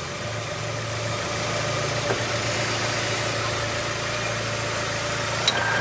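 Chevrolet Aveo's E-TEC II 16-valve four-cylinder engine idling steadily as the air conditioning is switched on. The idle holds instead of dying, a fault the engine used to show with the AC on. A click comes near the end, and a thin steady whine joins in after it.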